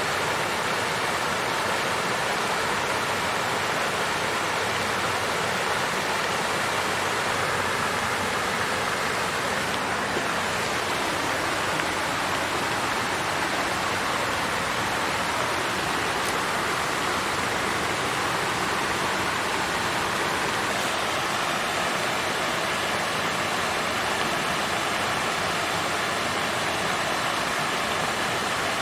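Water fountain flowing: a steady, unbroken rush of falling and splashing water.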